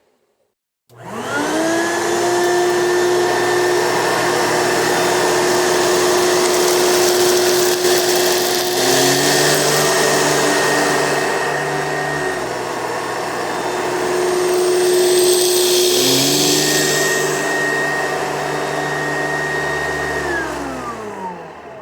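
1996 Oreck XL9100 upright vacuum cleaner switched on about a second in, its motor spinning up quickly to a loud, steady whine. A lower hum joins twice along the way. Near the end it is switched off and winds down, the whine falling in pitch.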